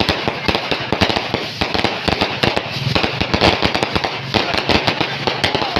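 Fireworks and firecrackers going off in rapid succession: a dense, unbroken crackle of many sharp bangs a second.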